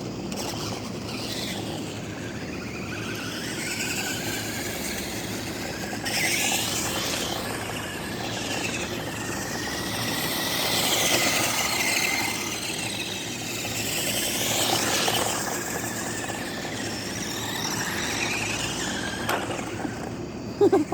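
Toy RC cars' small electric motors and gears whining, the pitch rising and falling again and again as they speed up and slow down. A couple of sharp knocks near the end.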